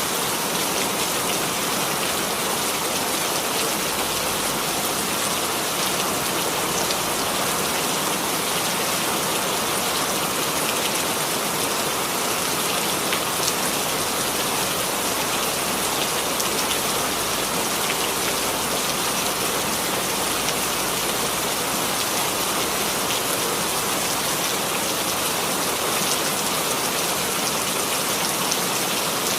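Steady rainfall with a fine patter of drops on a surface, unchanging throughout.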